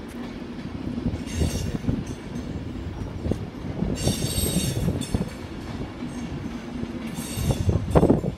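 A passenger train moving slowly with its wheels squealing on the rails in three short spells over a low running rumble, with a few heavier knocks near the end.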